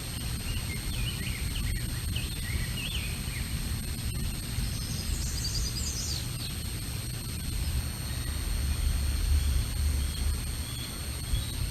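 Outdoor ambience with small birds giving short chirping calls, a cluster in the first few seconds and a higher burst about halfway through. Under them, low wind rumble on the microphone swells near the end, with a steady high-pitched hum throughout.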